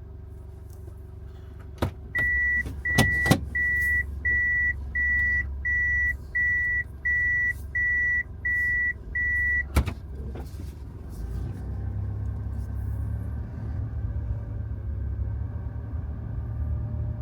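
Toyota Hiace van's engine running with a steady low rumble inside the cabin, with the dampening and insulation fitted over the engine. A warning chime beeps evenly eleven times, about every 0.7 s, and stops right after a sharp click about ten seconds in; a few other clicks come earlier. The rumble grows a little louder over the last few seconds.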